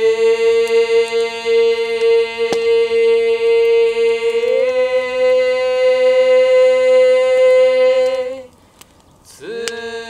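A single voice chanting a prayer in long held tones: one steady note, a small step up about halfway through held for several more seconds, then a brief breath and a new note near the end.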